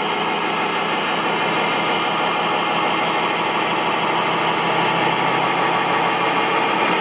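Steady engine-like running of a radio-controlled model construction machine, an even mechanical drone with no sudden knocks or changes.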